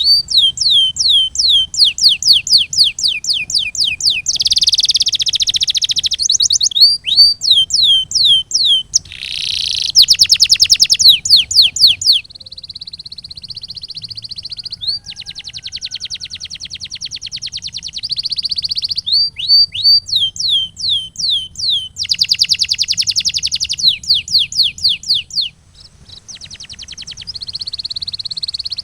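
Canary singing a continuous song in changing phrases: runs of quick falling whistles about four a second, alternating with fast rolling trills and a held steady whistle about twelve seconds in.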